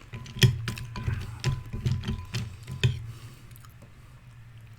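Close-up chewing of crunchy Hostess Twinkies cereal in milk, a quick run of crisp crunches over the first three seconds or so that then dies down.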